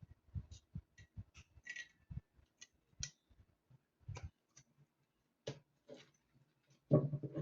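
Irregular light clicks and taps of small hard parts and tools being handled, with a louder clatter near the end.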